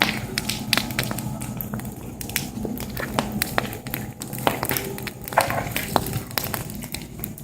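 Wood fire crackling, with sharp irregular pops and snaps.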